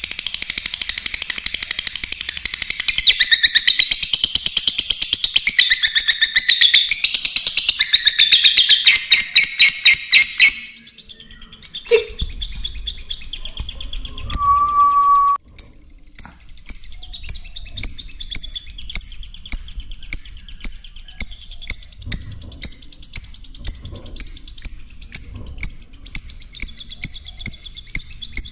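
Small birds chirping and chattering in a dense, rapid stream for about ten seconds. After a short lull with a click and a brief steady whistle-like tone, a regular series of high chirps starts, about two a second.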